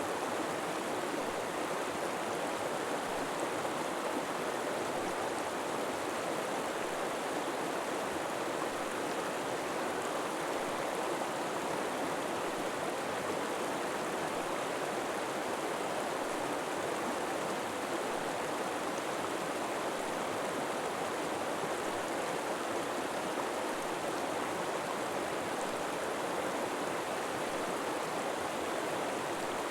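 River water flowing, a steady, even sound of running water that does not change.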